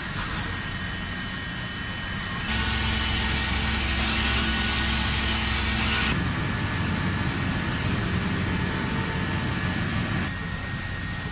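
Industrial machinery running with a steady noise and fixed high tones. About two and a half seconds in it suddenly grows louder and fuller for roughly three and a half seconds, then drops back, and drops slightly again near the end.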